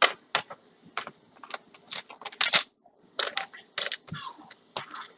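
Packaging being handled and opened: irregular crinkles, rustles and sharp clicks, one longer crinkle about halfway through being the loudest.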